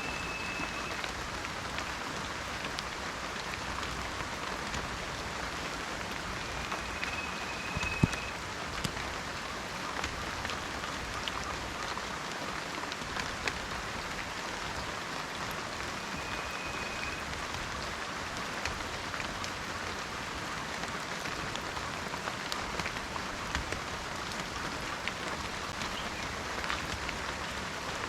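Steady rain falling in a forest, with individual drops ticking throughout and one sharp, louder drop or knock about eight seconds in. Three short, high whistled notes sound over the rain: near the start, around seven seconds in and around sixteen seconds in.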